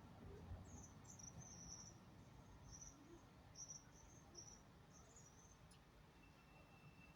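Faint high-pitched chirps from small birds, short notes coming at irregular intervals over a low background rumble.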